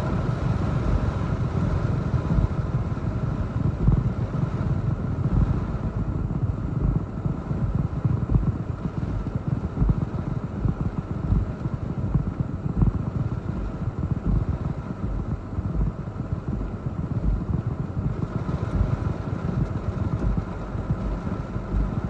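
Strong, gusty hurricane wind buffeting the microphone: a continuous low rumbling rush that surges unevenly with the gusts.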